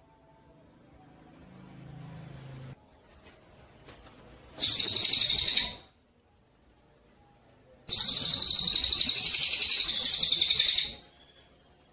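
Songbird on a bird-training recording giving rapid rattling trills: a short burst about halfway through and a longer one of about three seconds near the end, with pauses between in which only faint thin whistles are heard.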